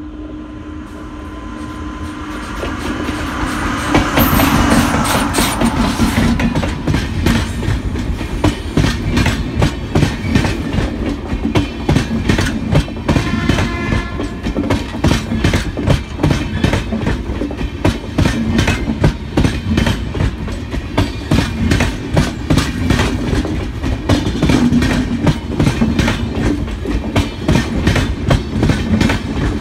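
Electric passenger train passing at speed: a WAP-7 electric locomotive grows louder over the first few seconds as it nears, then its string of passenger coaches runs by with a rapid, rhythmic clickety-clack of wheels over rail joints.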